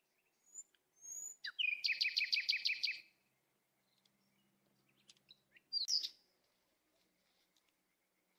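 Small songbirds chirping, with a fast trill of repeated notes lasting about a second, then another sharp chirp a few seconds later.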